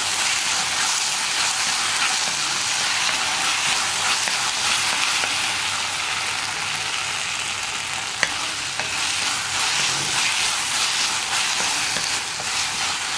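Sliced onions and green chillies sizzling steadily in oil in a cast-iron kadai as they are stirred and scraped with a wooden spatula: the chilli powder and tomato sauce frying until cooked. A single sharp tap about eight seconds in.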